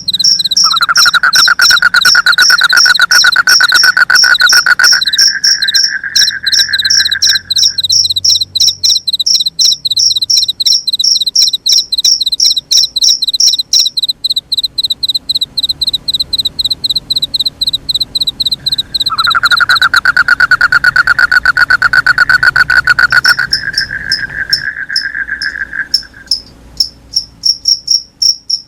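Crickets chirping in a fast, steady pulse throughout. A second, lower-pitched rapid trill comes in twice, each time for about seven seconds.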